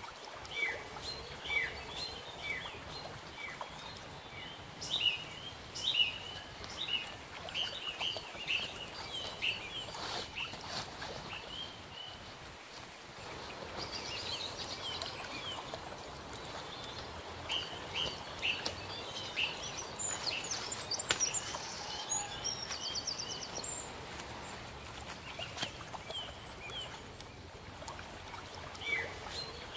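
Birds chirping: many short, high, falling calls repeated again and again, with a lull a little before the middle. A few soft knocks and rustles of handling sound among them.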